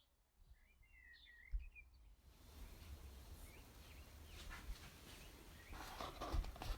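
Small birds chirping briefly over a quiet background. About two seconds in the sound cuts to a low rumble with a few light knocks and clatters, the loudest near the end.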